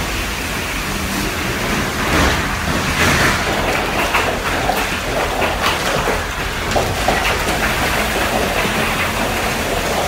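Hail and heavy rain pelting a vehicle during a violent storm: a dense, continuous rattle of many small impacts over a loud rushing noise.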